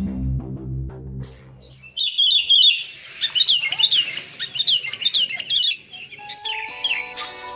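Recorded birdsong in a song's intro: a burst of rapid, high chirping and twittering calls lasting a few seconds, after music with a low bass line fades out about two seconds in. Instrumental music comes back in near the end.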